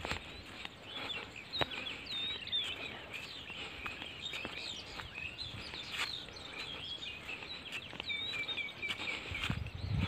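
Songbirds chirping and twittering continuously, a dense run of short high notes that rise and fall. A low rumble comes in near the end.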